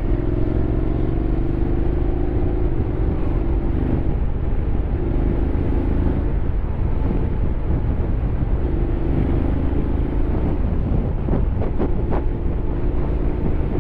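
Honda X-ADV 750's parallel-twin engine running while the scooter rides down a descent, with road and wind rumble beneath it. Its engine tone eases down slightly over the first few seconds, then comes and goes.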